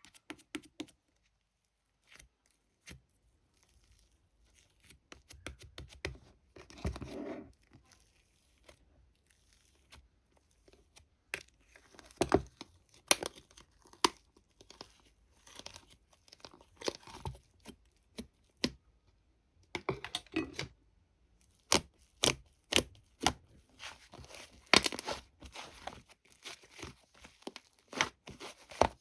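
Irregular tearing and crinkling of paper-like material handled close up, with sharp clicks and taps. It is sparse at first and becomes busier about halfway through.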